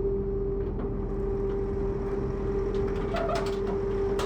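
A machine running with a steady, even hum, with a few light clicks and knocks over it.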